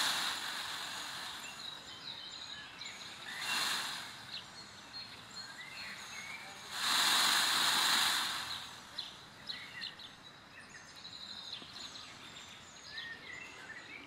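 Outdoor ambience of small birds chirping, with many short, high chirps scattered throughout. Two swells of rustling, hissing noise rise and fade, a short one about three and a half seconds in and a longer, louder one about seven seconds in.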